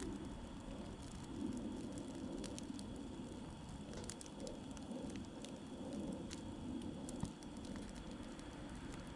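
Wood campfire burning, with scattered small crackles and pops over a steady low rush and one sharper pop about seven seconds in.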